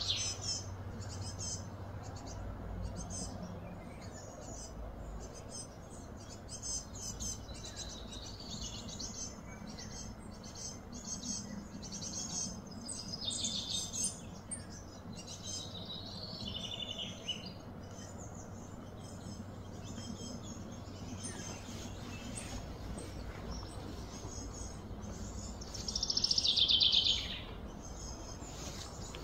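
Birds chirping and calling over a steady low background hum, with one louder, slightly falling call lasting about a second and a half near the end.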